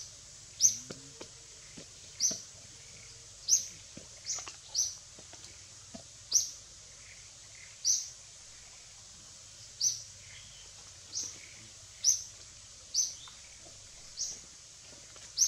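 A bird repeating a short, high chirp roughly once a second at irregular spacing, over a quiet outdoor background.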